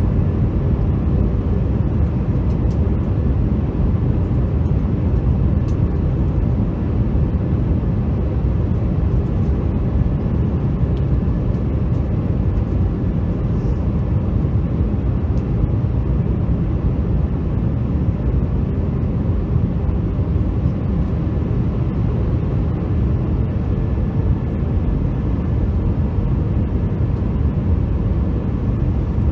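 Airbus A321 airliner cabin noise in flight: engines and airflow heard from inside the cabin as a steady low rumble with a faint hum.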